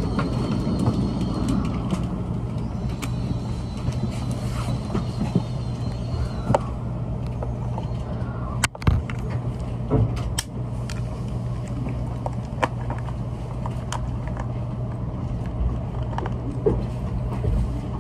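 Inside an N700S Shinkansen car as the train slows to a stop at a platform: a steady low hum with a rougher rumble in the first couple of seconds, then scattered sharp clicks and knocks, the strongest about nine seconds in.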